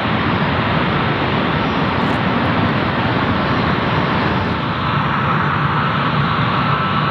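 Jet airliner engine noise, a steady loud rush, with a thin whine coming in about five seconds in.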